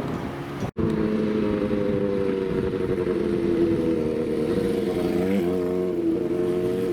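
Motorcycle engine running at a steady pitch, with a brief wobble in engine speed about five seconds in. The sound cuts out for an instant under a second in.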